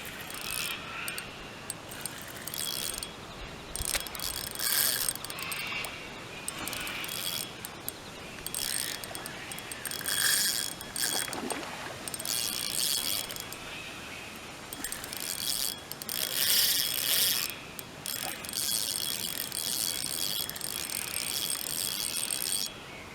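Fishing reel being wound and ratcheting in repeated bursts of a second or two, with short pauses between, as a hooked carp is fought and reeled in.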